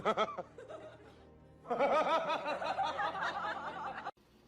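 Quick bursts of chuckling laughter: a brief burst at the start, then a longer run of rapid pulses, about six a second, that cuts off suddenly.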